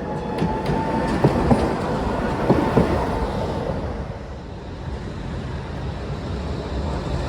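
A tram running along street track, its wheels clacking over rail joints several times, roughly in pairs, during the first three seconds, with a faint steady whine. After that comes a steady rumble.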